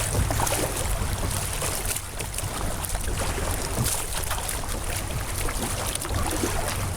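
Fast-moving floodwater rushing and splashing around a kayak, with a steady low rumble underneath.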